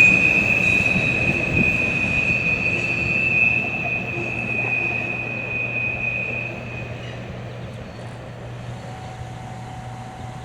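Freight train cars rolling past with a steady high-pitched wheel squeal over a low rumble; the squeal dies out about seven seconds in and the rumble fades as the train moves away.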